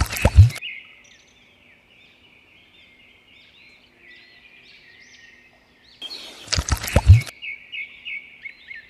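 Birds chirping steadily in a continuous stream of short, high calls, broken twice by a loud, sudden noise with a deep thump: once at the start and again about six seconds in.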